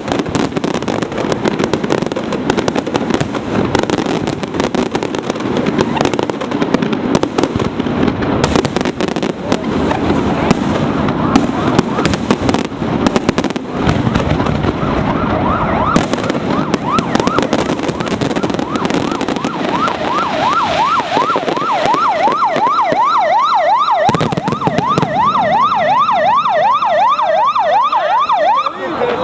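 Aerial fireworks display: a dense run of shell bursts, bangs and crackling. From about halfway in, a siren wailing up and down about twice a second joins, and stops just before the end.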